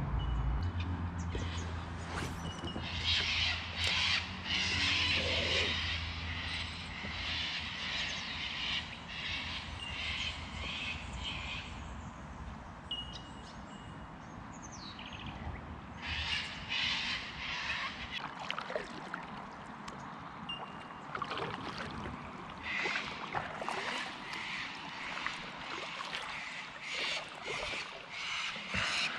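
Birds calling in the riverside bush: repeated bursts of rapid, high-pitched notes that come and go in spells, with a couple of short, clear whistles between them.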